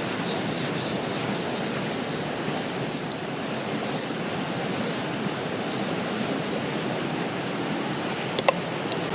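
Steady rush of flowing river water. About two and a half seconds in, a run of light, evenly spaced scraping strokes, two to three a second, goes on for about four seconds; one sharp click comes near the end.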